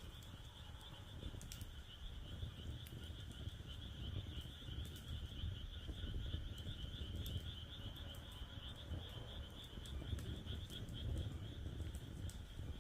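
Wood fire in a fire pit crackling, with scattered sharp pops. Behind it runs a steady high-pitched chirring chorus, along with a low rumble.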